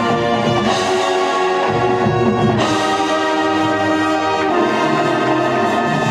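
High school band playing, its brass section (trombones and trumpets) sounding loud held chords that change every second or two.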